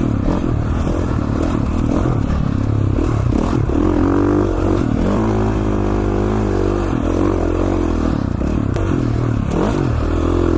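2017 KTM 450 XCF's single-cylinder four-stroke engine running under load on a dirt bike ride, its pitch rising and falling with the throttle, holding steady for a couple of seconds past the middle before dropping off.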